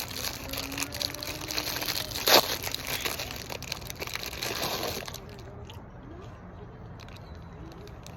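Plastic cookie wrapper crinkling and crackling as it is handled and torn open, with one loud sharp crackle a little over two seconds in. After about five seconds it goes quieter, with only a few faint clicks.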